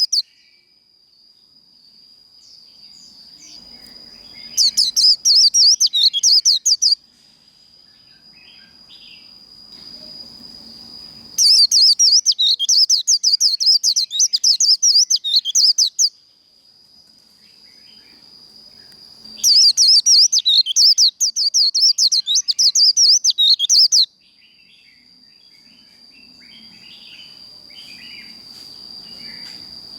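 White-eye (vành khuyên) singing its rapid, chattering 'líu' song in three bouts of a few seconds each, with quieter pauses between them.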